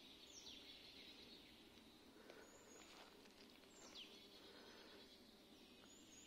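Near silence: faint woodland ambience with a few distant bird calls, including two short whistles that slide downward, one near the start and one a little past halfway.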